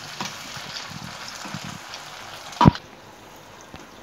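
Tomatoes and pepper frying in oil in a frying pan, a steady sizzle with a few light stirring clicks. About two and a half seconds in comes one sharp knock, after which the frying is quieter.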